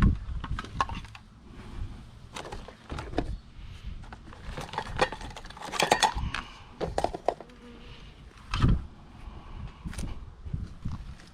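Irregular clicks, taps and light clattering of small hard objects being handled, with a heavier thump about three-quarters of the way through.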